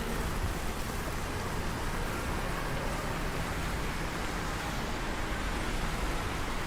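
Steady rain falling, an even hiss of rainfall with no separate drops or knocks standing out.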